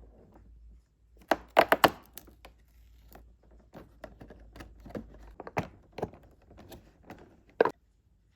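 Irregular knocks and taps of objects being handled and set down on a hard surface, with a loud cluster of clatters about one and a half seconds in and a last sharp knock near the end.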